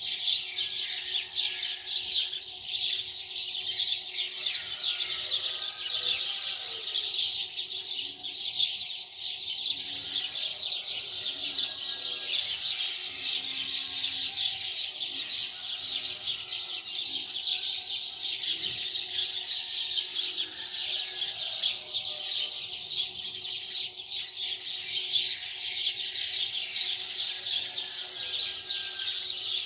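Dense, continuous high chirping of many birds, with a faint steady hum beneath.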